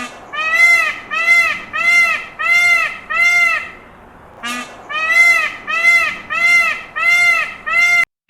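A series of short, arched, high-pitched animal calls repeated about twice a second, in two bouts, each bout opening with a brief sharp note; the sound cuts off abruptly near the end.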